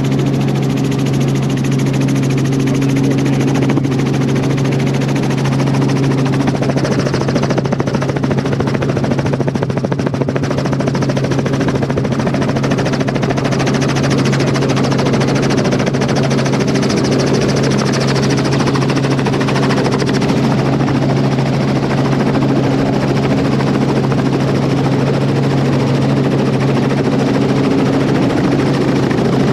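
Helicopter engine and rotor heard from inside the cabin: a loud, steady drone with a constant low hum.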